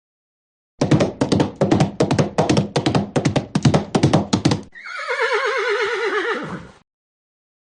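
Rapid hoofbeats of a horse for about four seconds, then a horse's whinny that wavers and falls in pitch. Both start and stop abruptly out of silence.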